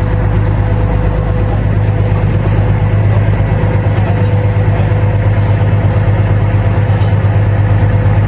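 A boat's motor running steadily and loud, a constant low drone with a faint steady hum above it.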